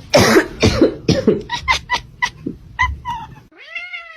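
Cat meowing: loud, rough cries at first, then a quick run of short meows, and one longer drawn-out meow near the end.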